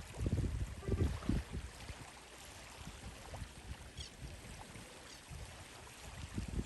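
Water washing and splashing in a steady even rush, with irregular low rumbling thumps in the first second and a half and again near the end.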